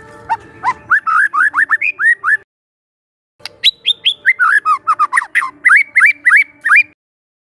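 Young wild white-rumped shama singing: two quick runs of short, mostly upward-sliding notes, with a pause of about a second between them.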